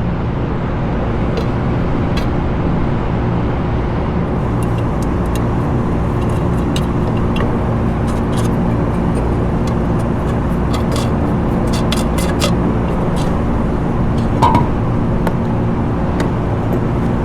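A steady mechanical drone with a low hum, typical of running rooftop machinery, with scattered light clicks of small metal parts and tools being handled.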